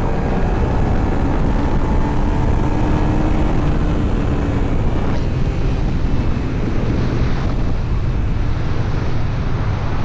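Motorcycle running along the road, its engine tone easing down at the start, under heavy wind noise buffeting the microphone.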